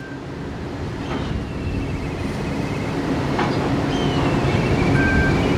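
Steady low rumble and hum of a large ship's machinery, fading up at the start. Over it come several high whistled calls that slide down and then waver on.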